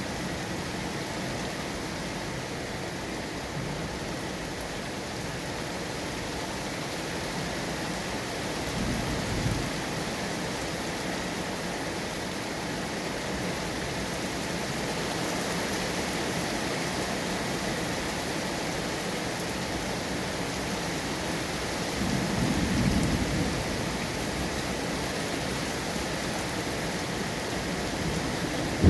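Steady heavy rain falling, a continuous even hiss. Low rumbles of thunder swell up twice, briefly about nine seconds in and longer and louder a little past two-thirds of the way through.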